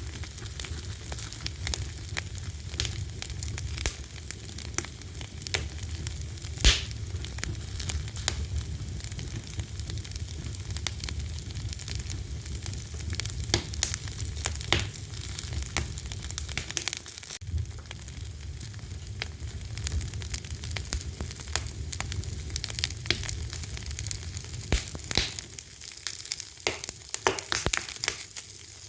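Wood fire burning with a continuous hiss and low rumble, and frequent sharp pops and crackles; one loud pop about six seconds in.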